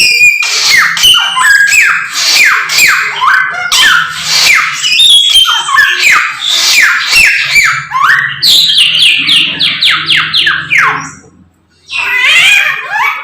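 Caged samyong songbird singing loudly and continuously: a fast string of sharp downward-sweeping whistled notes, with a short break near the end before it starts again.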